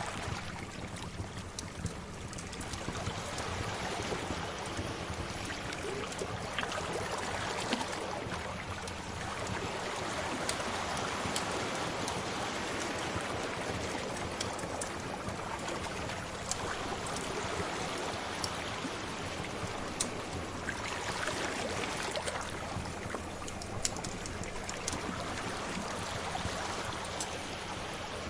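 Sea waves washing ashore in slow swells, with the small sharp crackles and pops of a wood fire scattered through them.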